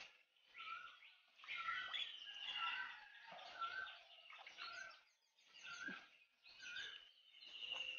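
A bird chirping faintly, a short call about once a second, repeated some eight times.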